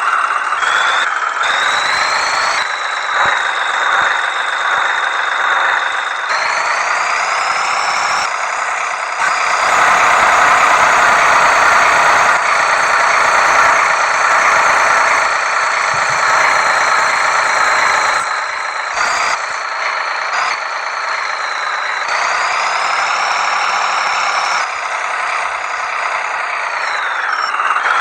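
Tractor engine running hard, revving up and down, with a high whine that rises and falls in pitch along with the revs.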